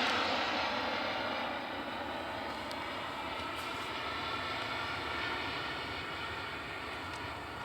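Twin turbines of a home-built Tornado model jet running with a steady rushing hiss that gradually gets quieter.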